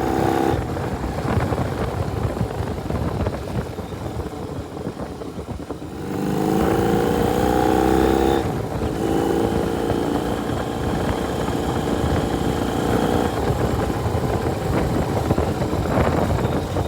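Motorcycle engine running on a test after work on its kill switch: it idles, is revved up about six seconds in for a couple of seconds, then settles back to steady running.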